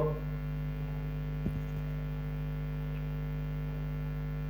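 Steady electrical mains hum, with a faint click about a second and a half in.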